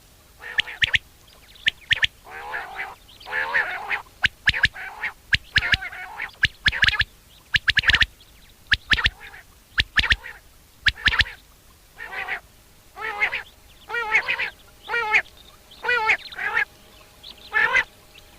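Common quail calling: very short, sharp notes in quick groups of two or three, repeated again and again, with lower, wavering calls between the groups.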